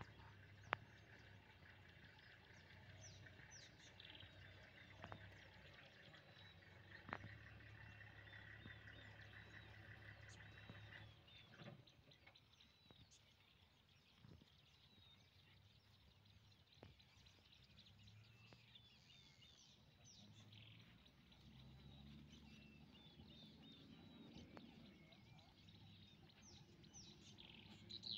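Near silence: faint, scattered bird chirps, with a low steady hum that stops suddenly about eleven seconds in.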